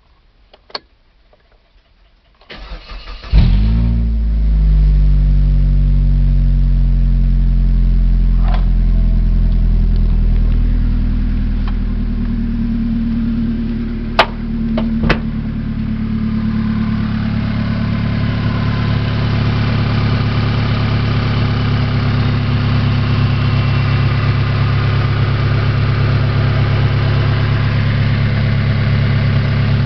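Mitsubishi 4G93 inline-four engine being started: a click, about a second of cranking, then it catches and settles into a steady idle. Two sharp clicks come about halfway through.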